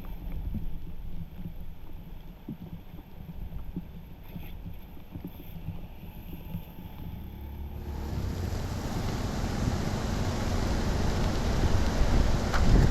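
A low, rumbling water noise with scattered small knocks. About eight seconds in, a loud rush of water starts suddenly and grows louder toward the end: floodwater pouring through a freshly unclogged drain.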